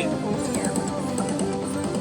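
Ultimate Fire Link slot machine playing its electronic game music, a run of plucked, guitar-like notes.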